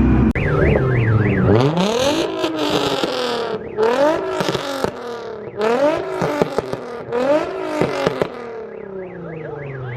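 Car engine revved hard again and again, its pitch climbing and dropping about every second and a half, with exhaust pops and crackles as the revs fall.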